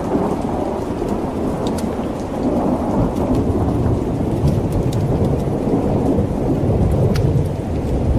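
Steady heavy rain with rolling thunder rumbling low underneath, swelling from about three seconds in and holding through the end, and scattered sharp ticks over the top.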